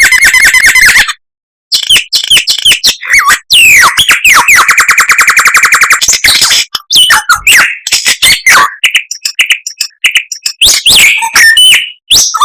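A songbird's loud, varied song: quick whistled glides and sharp chips, with a fast, even trill about four seconds in and brief pauses between phrases.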